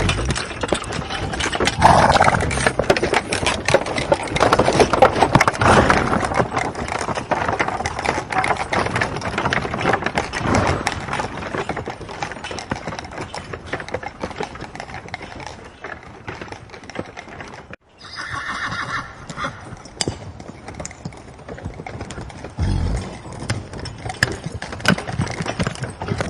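Horses whinnying, with many hoof clicks throughout, and a sudden cut about two-thirds of the way through.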